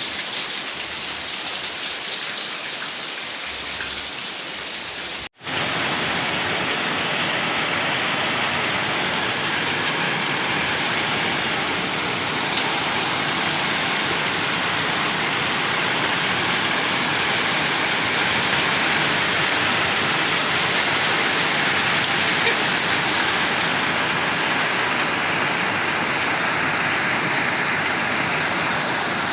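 Heavy rain falling steadily. The sound cuts out for an instant about five seconds in and comes back somewhat louder.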